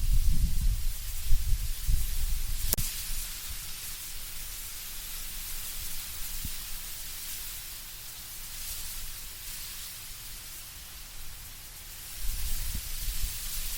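Wind blowing through autumn trees with leaves rustling in a steady hiss, and low gusts of wind rumble in the first few seconds and again near the end. A single sharp click about three seconds in.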